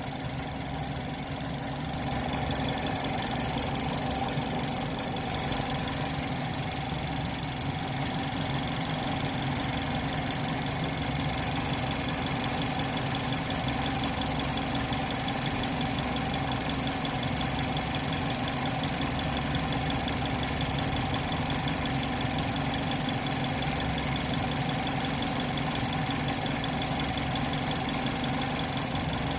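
2010 Chevrolet HHR engine idling steadily at operating temperature, thermostat open, with the hood up.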